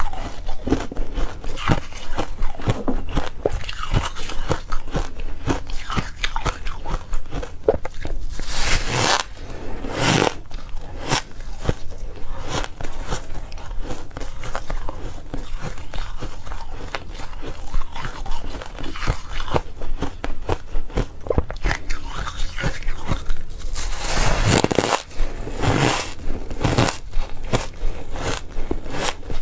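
A person biting and chewing ice close to the microphone: a dense run of crunching and cracking, with clusters of louder bites about nine seconds in and again near the end.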